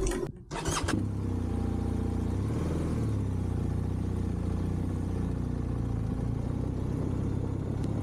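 A few short knocks, then a vehicle engine running steadily at an even speed.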